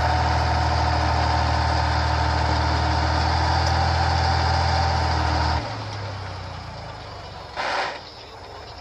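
Heavy truck engine running steadily with a deep, loud hum. It cuts off abruptly about five and a half seconds in, leaving a quieter background with a brief burst of rushing noise near the end.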